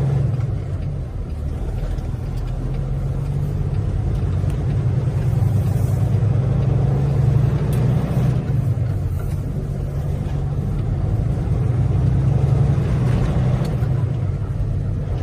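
Semi truck's diesel engine running steadily while driving, a low drone that swells and eases slightly.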